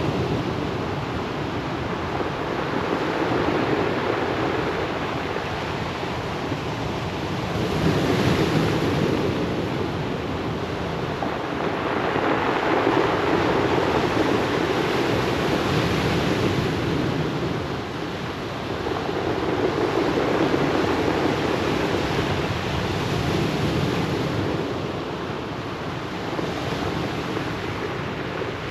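Ocean waves breaking and washing up a pebble beach, the surf swelling and easing every few seconds, with some wind.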